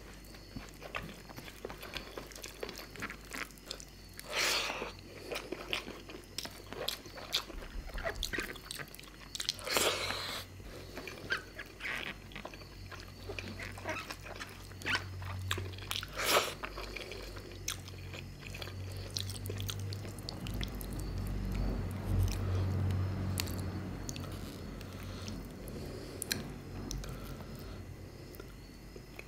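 Close-miked eating sounds: chewing and biting fish curry with rice, with many small wet mouth clicks and three louder strokes spread through.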